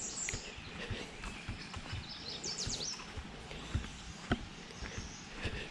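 Outdoor background noise with a quick series of high, falling bird chirps about two and a half seconds in, and a few faint knocks, the clearest about four seconds in.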